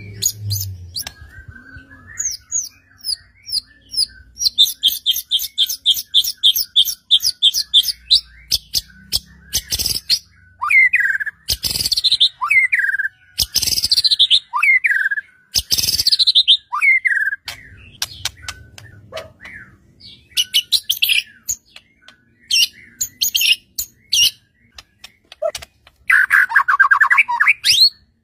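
White-rumped shama (murai batu) singing a loud, varied song: a fast run of repeated high notes, then a string of falling whistles, and near the end a harsh rattling phrase. This is the full, mimicry-rich song that keepers play as a bait recording to set their own shamas singing.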